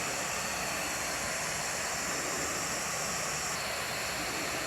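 Steady hiss with no distinct events.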